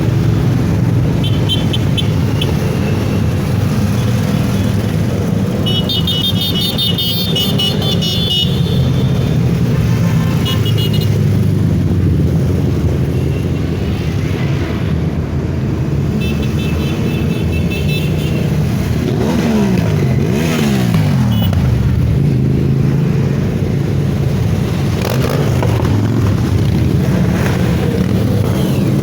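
Motorcycle engine running steadily on the road, its pitch rising and falling through a change of speed a little past two-thirds of the way in.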